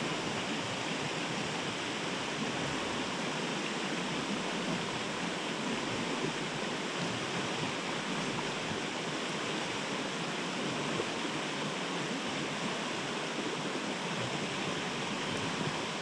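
Steady rush of a mountain stream's flowing water, running evenly without a break.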